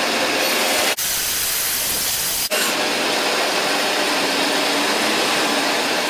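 Bandsaw running and resawing a hard wenge block, a steady loud whir and hiss of the blade in the wood. The sound changes abruptly at about one second in and again at about two and a half seconds.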